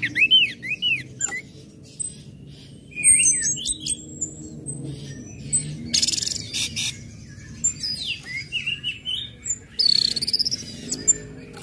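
Orange-headed thrush singing a varied, chattering song. It opens with a quick run of arched whistled notes, then goes on with mixed chirps, whistles and short harsh, rasping notes around the middle and near the end.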